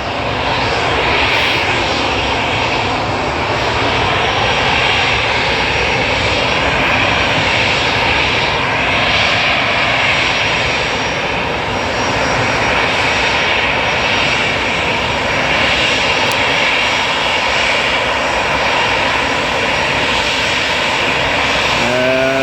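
Jet airliner passing close by, its engines making a loud steady roar with a slowly shifting, phasing whoosh as it moves.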